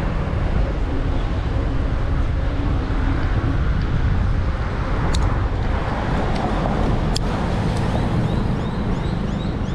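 Wind rumbling on a bike-mounted camera's microphone, with road traffic noise from passing cars. A few sharp clicks come in the middle, and a quick run of short high chirps near the end.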